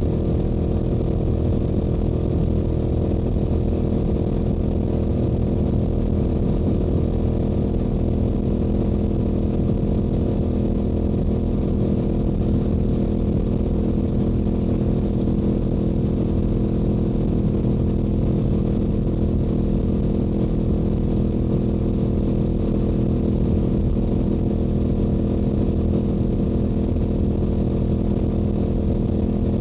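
Stock exhaust of a Yamaha YZF-R7's parallel-twin engine running at a steady highway cruise, its pitch holding even throughout with no shifts or revving.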